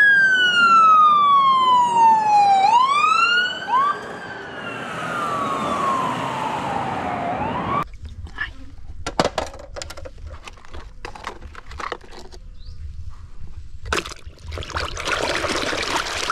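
Toy ambulance's electronic siren wailing, its pitch sliding down, up and down again for about eight seconds before it cuts off. Then a run of sharp plastic clicks, and a hiss near the end.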